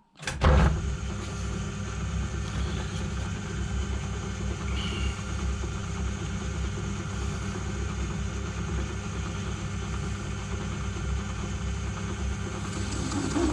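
Metal lathe starting up about half a second in, then its motor and spindle running steadily with a low hum, getting louder near the end as the cut-off tool goes into the work for a parting cut.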